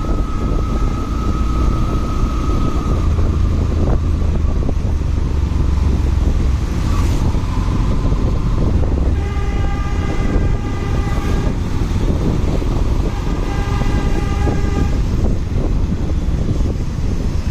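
Motorcycle running along in traffic with a steady rumble of engine and wind noise, and two long horn blasts from another vehicle, about nine seconds in and again a few seconds later.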